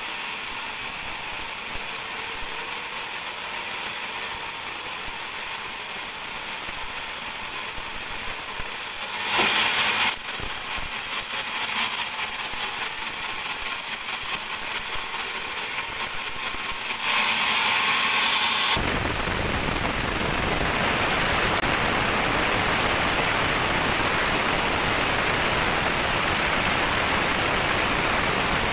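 Band sawmill running on a teak log: a steady rattling mechanical noise with two brief louder surges. About two-thirds in, a louder, even rushing noise takes over and holds.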